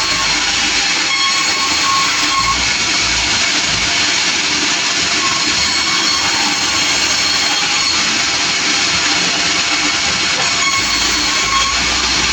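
Sawmill running with a loud, steady, even noise.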